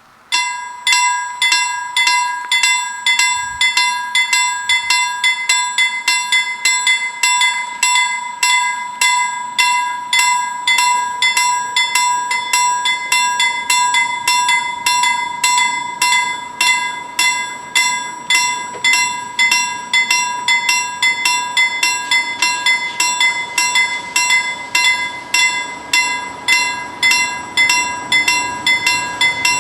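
Level crossing warning bells starting up abruptly and then struck rapidly and steadily, a bright metallic ringing, signalling that a train is approaching.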